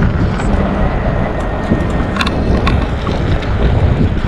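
Wind rumbling and buffeting on the microphone of a rider on a moving e-bike, with a faint steady high tone underneath and a couple of light clicks a little after halfway through.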